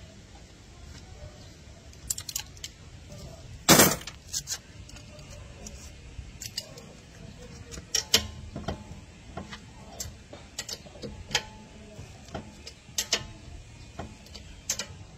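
Metal hand tools clinking and clacking at irregular intervals during work on the car's wheel, with one loud clack about four seconds in.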